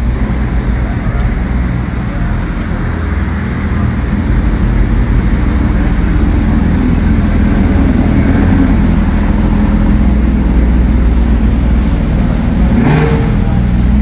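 Koenigsegg Jesko's twin-turbo V8 running at fairly steady revs, a loud low drone with road noise. A brief higher-pitched sound comes about 13 seconds in.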